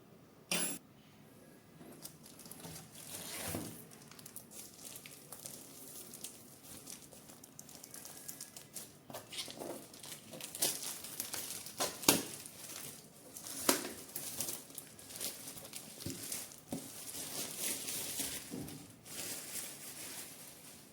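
Plastic packaging crinkling and rustling as printer parts are handled, with scattered sharp clicks and knocks; the loudest knock comes a little past halfway.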